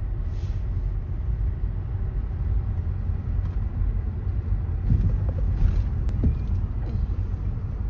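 Steady low rumble of a moving vehicle, road and wind noise heavy on the microphone.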